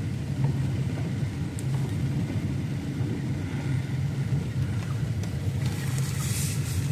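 Motor vehicle driving, a steady low rumble of engine and tyres.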